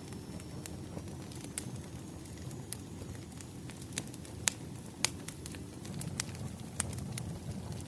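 Wood fire crackling: a steady low rumble of burning logs with irregular sharp pops and snaps, a few louder ones past the middle.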